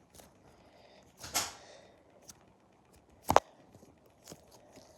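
Handling noises from a duck-shaped squishy toy and its packaging: a brief rustle about a second in, then one sharp tap a little past three seconds, with a few small clicks. The toy itself barely makes any noise.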